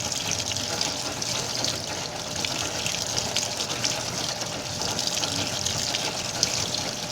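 Washing machine filling: a steady rush of water pouring in.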